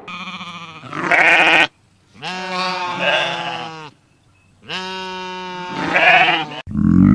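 Three long bleats, each wavering in pitch, from a goat or sheep. Near the end a loud, low-pitched animal sound cuts in.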